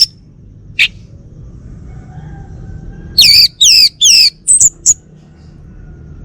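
Male orange-headed thrush singing: one short note, then three loud whistled notes that each slide downward, followed by a quick run of short very high notes.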